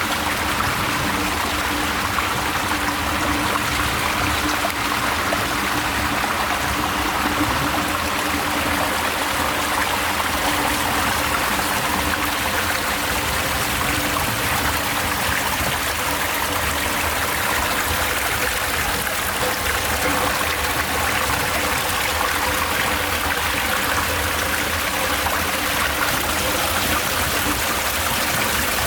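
Water running steadily through a miniature concrete model dam, with a faint steady hum underneath.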